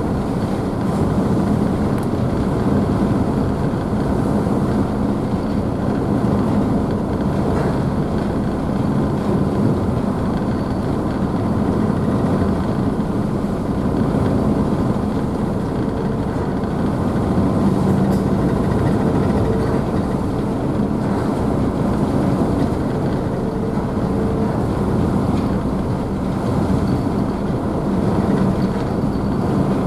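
Car ferry's engines running with a steady low hum under the rush of the wake and waves splashing behind the stern, without change throughout.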